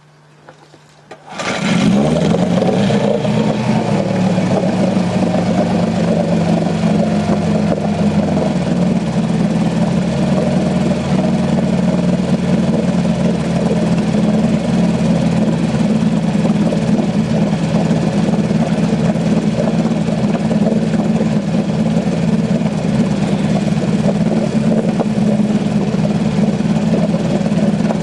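Boat engine starting about a second in after a brief crank, then running steadily at a low idle.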